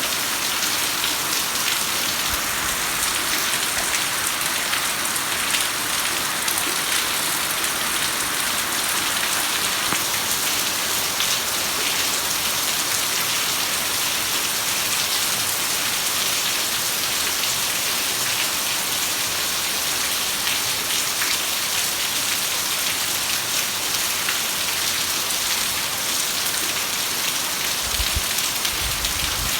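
Heavy rain falling steadily in a dense, even hiss, with a few faint low thumps near the end.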